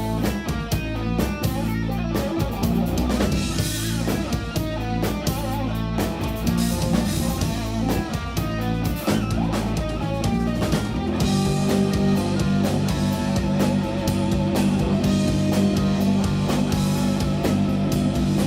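A live instrumental jazz-rock trio of electric guitar, electric bass and drum kit playing a ballad. The drums keep a busy pattern of hits throughout, and the low end swells into a fuller, louder passage about eleven seconds in.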